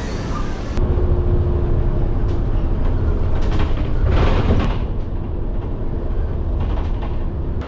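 Steady low rumble of a vehicle in motion, with a faint steady hum over it; it cuts off abruptly near the end.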